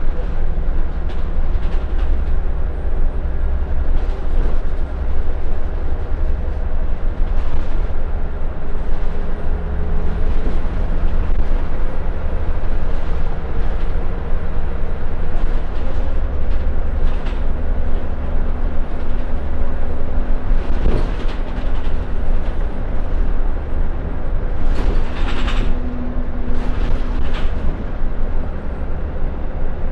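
Inside a Scania L94UB Wright Solar single-deck bus on the move: the diesel engine running under a steady road rumble, its tone rising and falling slowly, with a few brief rattles and knocks, the loudest about three-quarters of the way through.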